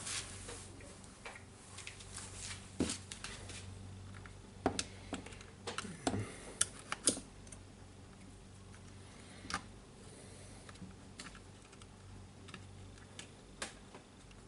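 Scattered light clicks and taps of small parts being handled while a DeWalt D25003 rotary hammer is put back together, busiest about five to seven seconds in.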